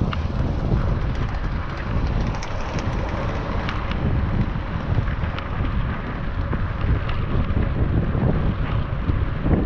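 Wind buffeting the microphone of an action camera on a moving bicycle: a steady low rumble. A few faint clicks come through it.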